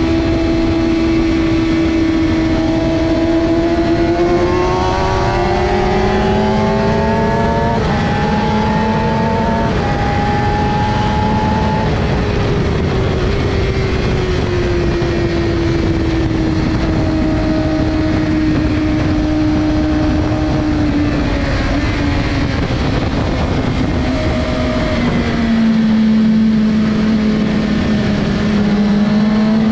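Suzuki GSX-R600's inline-four engine running hard on track, heard from on board: the engine note climbs in steps through the gears, sags slowly, drops sharply near the end, then climbs again, over a steady rush of wind.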